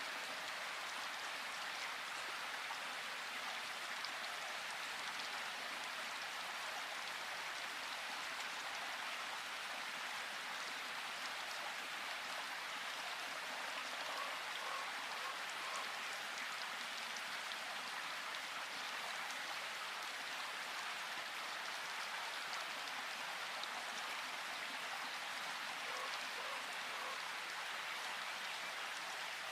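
Steady rain falling in a forest, an even hiss.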